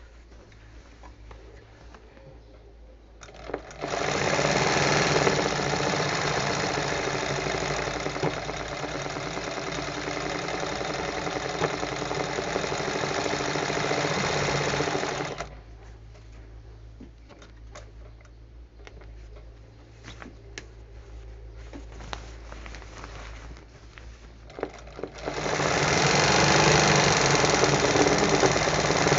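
Sewing machine stitching hand-guided machine embroidery, running steadily in two long runs: from about four seconds in for some eleven seconds, then again from about twenty-five seconds on. Between the runs a low hum continues with scattered light clicks.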